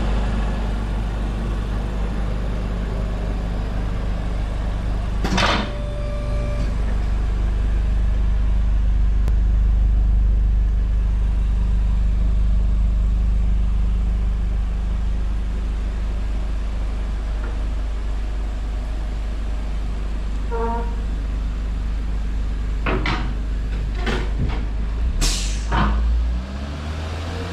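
Toyota C-HR's 1.2-litre turbocharged four-cylinder idling steadily through an aftermarket muffler with twin outlets. A few sharp clicks and knocks come over it, once about five seconds in and several near the end, when the engine pitch starts to rise.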